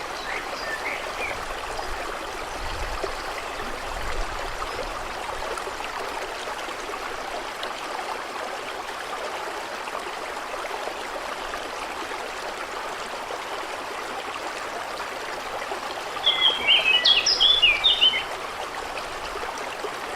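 A stream flowing with a steady rush of water. A songbird sings a short burst of quick chirping notes at the very start and again near the end.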